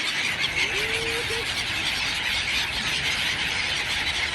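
Dense, continuous din of a large flock of birds calling all at once, with one lower drawn-out call that rises and then holds about a second in.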